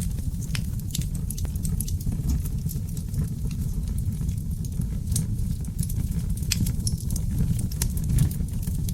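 Wood fire burning in a fireplace: a steady low rumble of flames with frequent sharp crackles and pops from the burning oak logs.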